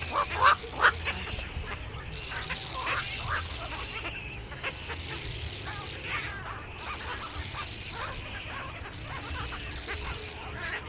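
Many birds calling and chattering together in short overlapping calls, with a few loud sharp calls in the first second, over a low steady hum.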